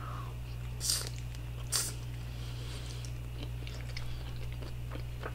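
Close-up mouth sounds of biting into and chewing a soft flour-tortilla seafood taco: two short, crisp bite sounds about a second and just under two seconds in, then faint wet chewing clicks. A steady low hum runs underneath.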